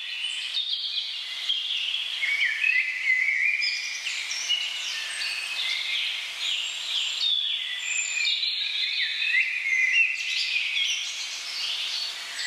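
Many birds calling and singing at once, a dense chorus of overlapping chirps and short whistling glides.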